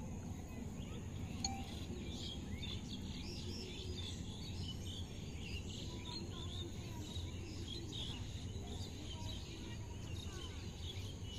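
Birds chirping, many short rapid calls, over a low steady background rumble.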